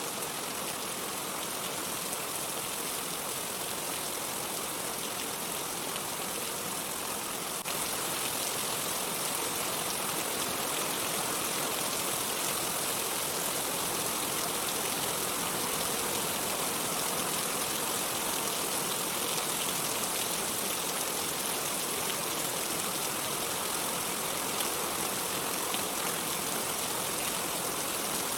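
Steady rain, an even hiss with no thunder, stepping up slightly in level about eight seconds in.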